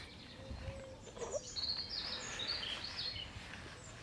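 Wild birds singing: a run of short, high chirps and trills over quiet outdoor background noise.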